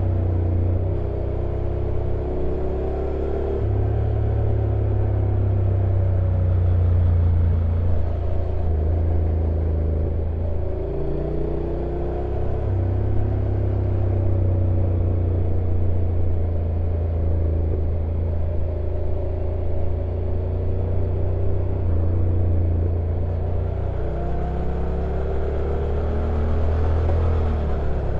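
Honda NC750X's parallel-twin engine running on a downhill motorcycle ride, its pitch sliding up and down several times as speed and gears change, over a steady deep rumble.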